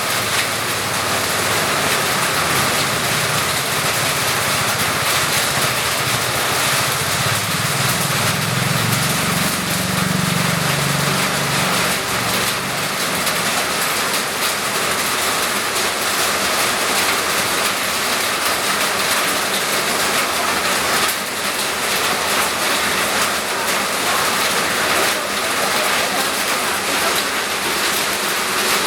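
Steady heavy rain, an even hiss of rain falling on surfaces. A low hum swells and fades about eight to twelve seconds in.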